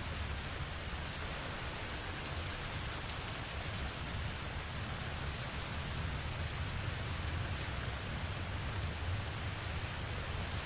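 Steady rain falling, an even hiss with a low rumble underneath, no distinct thunderclap.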